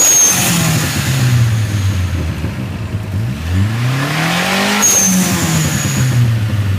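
Turbocharged car engine revved through an open 3-inch exhaust cutout. The revs fall away from a peak, climb again in a second blip about three and a half seconds in, then drop back toward idle. A short high whistle sounds at each peak as the throttle closes.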